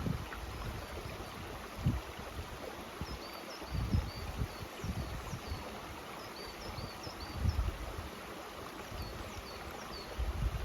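Mountain stream rushing steadily. A small bird calls over it in several runs of short, quick, high chirps, and a few brief low thuds break in now and then.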